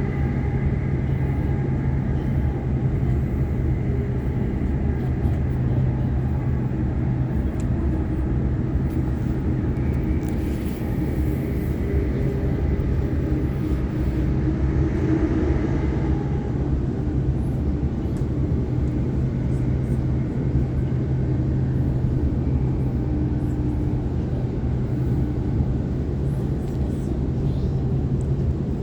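Waratah electric multiple-unit train running at speed, heard from on board: a steady low rumble with a constant hum and faint higher tones.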